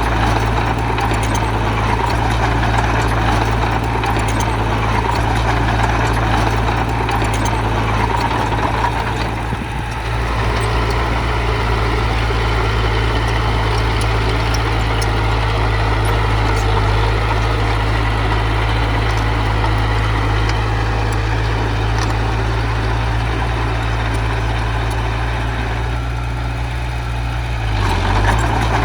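Diesel engine of heavy earthmoving machinery running steadily with a deep rumble. The level dips briefly about ten seconds in and again near the end.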